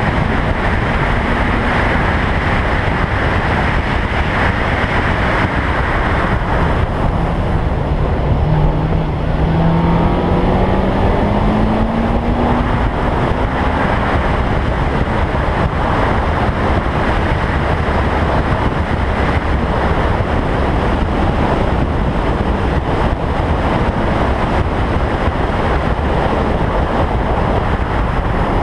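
Toyota Trueno's engine running at speed under heavy wind noise on a car-mounted microphone. About seven seconds in, the engine note climbs steadily for several seconds as the car accelerates through a gear.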